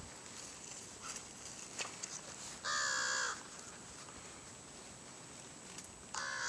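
Two loud, drawn-out animal calls, each a little over half a second long with a slight drop in pitch: one about three seconds in and another near the end.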